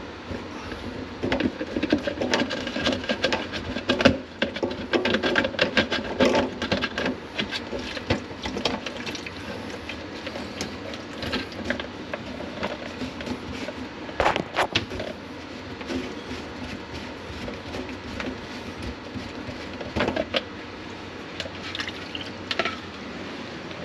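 Irregular clattering and knocking of things being handled: a busy run of knocks over the first several seconds, then a few separate knocks spaced out later.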